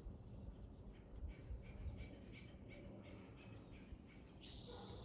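Faint bird calls: a string of short chirps through the middle, then a single harsh, scratchy call lasting under a second near the end, over a low rumble.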